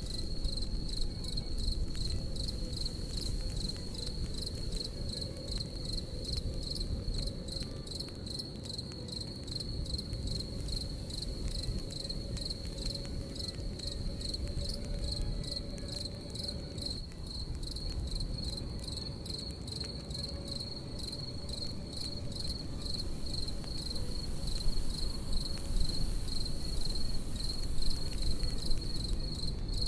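Crickets chirping in a steady, fast-pulsing high trill over the low, even rumble of a campfire, with a few louder crackles near the end.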